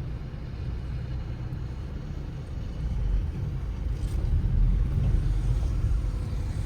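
Wind buffeting the microphone: a steady low rumble that gets louder from about three seconds in.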